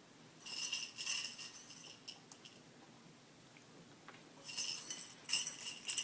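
Small metal pieces jingling with a bell-like ring, in two bursts: one about half a second in and another from about four and a half seconds.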